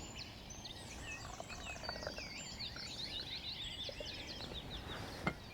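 Small woodland songbirds chirping and twittering together, a dense run of quick overlapping notes over a faint steady hiss. A single sharp click near the end.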